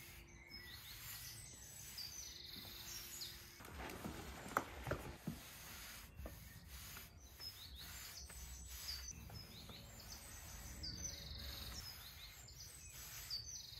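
Faint outdoor ambience: small birds chirping over and over in short high notes, with soft swishes of a long-handled brush spreading oil along wooden deck boards.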